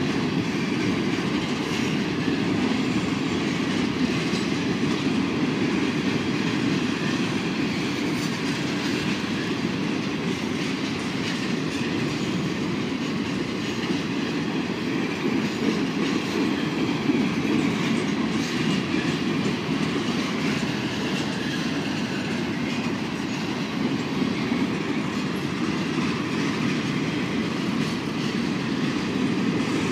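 Freight train boxcars rolling past at a steady speed: a continuous low rumble of steel wheels on rail with rapid wheel clicks.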